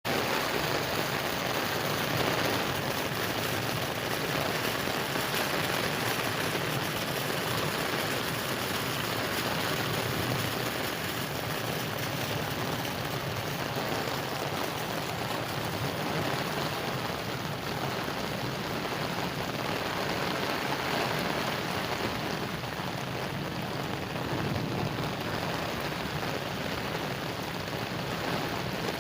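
Heavy rain falling steadily, an even hiss of drops hitting surfaces.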